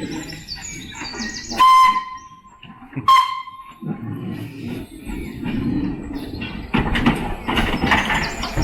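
Locomotive whistle giving two short blasts about a second and a half apart, each at one steady pitch, followed by a low rumbling.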